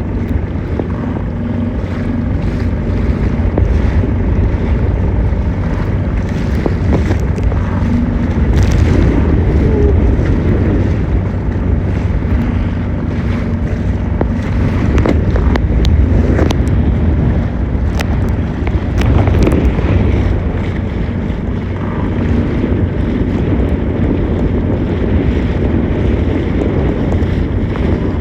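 Wind buffeting the microphone over water rushing and splashing against the hull of a boat under way, with spray coming aboard. A faint steady hum comes and goes under the noise.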